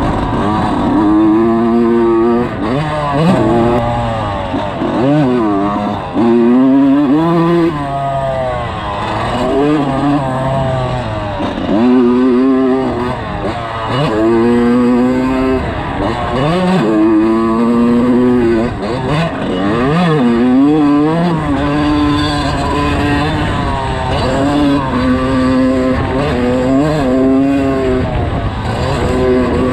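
Motocross dirt bike engine revving hard. Its pitch climbs and drops back every second or two as the bike accelerates, shifts and rolls off the throttle around the track.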